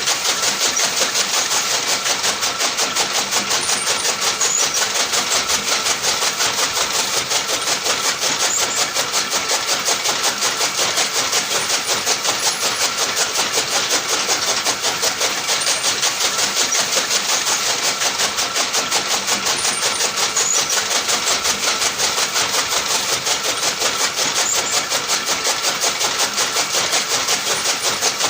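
Mini tractor's small motor running steadily with a fast, even buzz.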